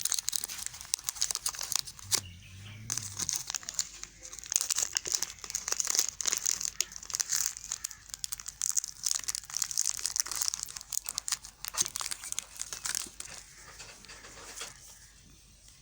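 A knife cutting into a bar of Safeguard white soap, a dense run of crisp crackling and scraping strokes as the soap crumbles, dying down near the end.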